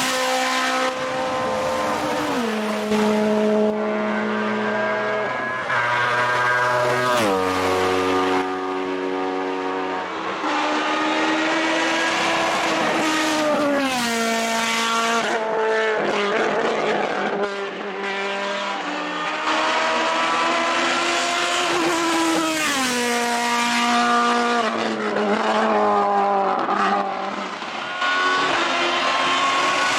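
Race car engine at hard revs on a hillclimb, its pitch climbing and then dropping sharply again and again as it shifts gears and brakes for corners.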